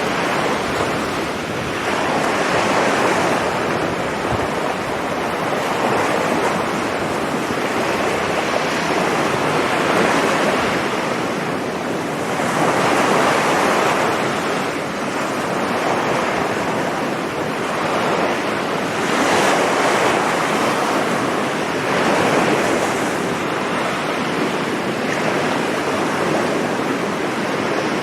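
Sea waves breaking and washing up a sandy beach in a continuous surf, swelling with each incoming wave every few seconds, with wind buffeting the microphone.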